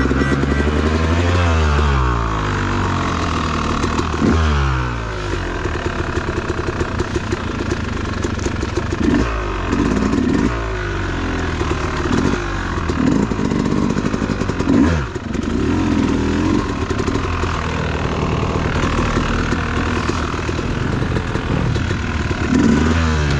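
Dirt bike engine being ridden off-road, its revs rising and falling repeatedly, with a run of short choppy throttle bursts in the middle.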